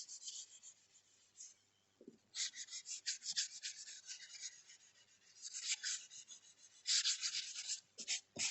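Pencil graphite being rubbed and smudged across sketchbook paper, in several runs of quick, scratchy back-and-forth strokes with short pauses between them.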